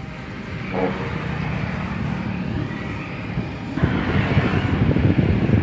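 Heavy truck engine running steadily, turning louder and rougher with a rapid knocking clatter about four seconds in.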